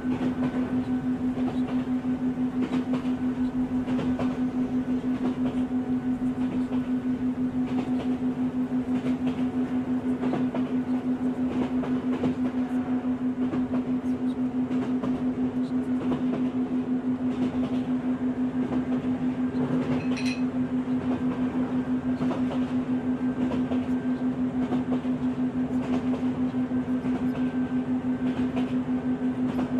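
A steady low tone pulsing rapidly, the 6 Hz theta binaural-beat track, laid over a recording of a train running and clattering along the rails.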